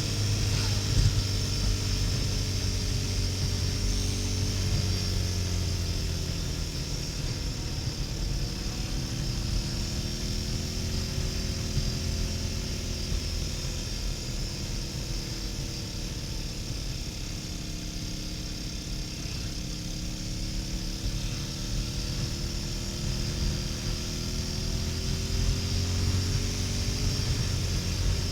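Harley-Davidson Sportster XL1200N's air-cooled 1200 cc V-twin running at motorway speed, with wind and road rush over it. The engine pitch sags and rises slowly several times as the speed changes.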